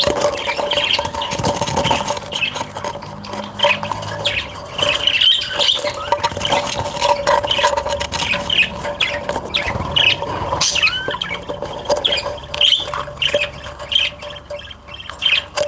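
Small cage birds chirping and chattering in many short, rapid high calls, mixed with light clicks and scratching, over a steady faint hum.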